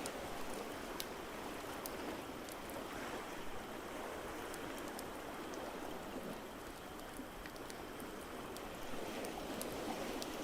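Ocean waves washing in a steady rush that swells and eases slowly, with sparse sharp crackles and pops from a wood fire on top.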